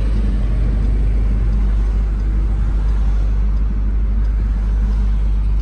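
Steady low rumble of a 2018 Jeep Grand Cherokee Trackhawk's supercharged V8 through its Borla ATAK cat-back exhaust, mixed with road noise, heard from inside the cabin while cruising at an even pace.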